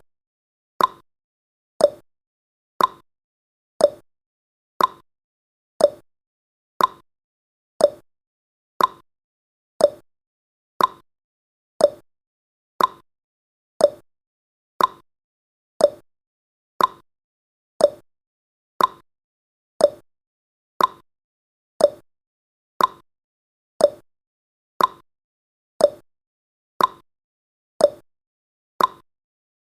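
Countdown timer's clock-tick sound effect: a short, sharp tick about once a second, evenly spaced.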